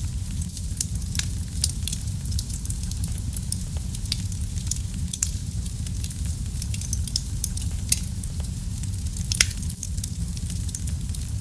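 Wood fire burning in a fireplace: a steady low rumble of the flames with frequent small crackles and pops, a few louder snaps scattered through.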